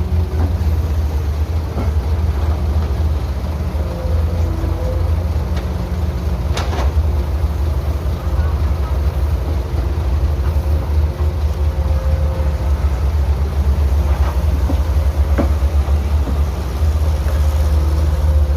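Diesel engine of heavy construction machinery running steadily with a deep rumble, with a couple of sharp metallic knocks.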